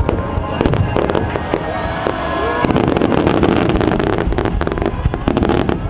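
Wide starmine firework barrage: many shells bursting in quick succession, turning into a dense run of bangs and crackling from about three seconds in.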